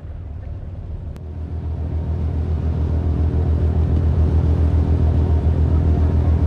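Tour boat's engine running, a low pulsing rumble that grows louder over the first few seconds and then holds steady.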